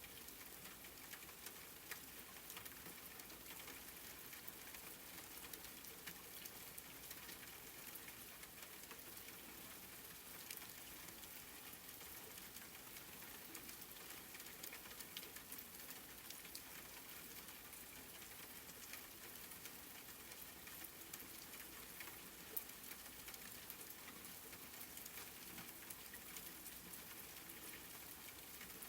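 Faint, steady rain: an even hiss with many small drop ticks scattered through it.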